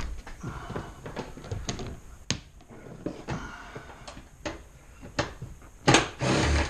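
Scattered clicks, knocks and rattles of plastic car interior trim being handled and pried at, with a louder scraping rattle near the end.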